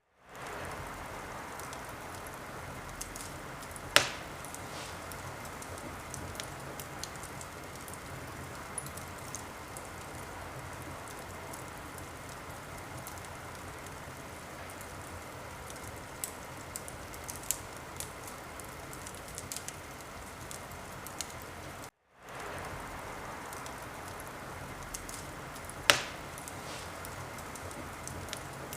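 Wood fire crackling steadily with a soft hiss and scattered small snaps, and two sharp loud pops, one about four seconds in and one near the end. The sound cuts out for a split second at the start and again about 22 seconds in.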